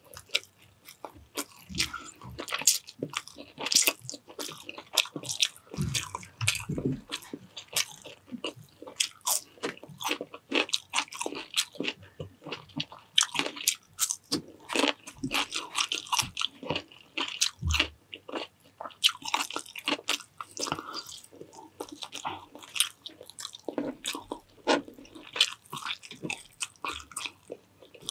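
A person eating close to the microphone: steady chewing with many crisp, irregular crunches and bites.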